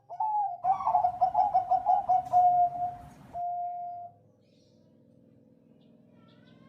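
Zebra dove (Bangkok perkutut) cooing: an opening note, then a quick run of staccato notes at about four a second, ending in a longer held note.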